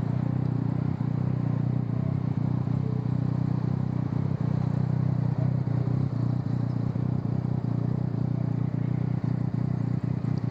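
Yamaha MT-09's three-cylinder engine running at a steady pitch while riding, a constant low engine note with no revving.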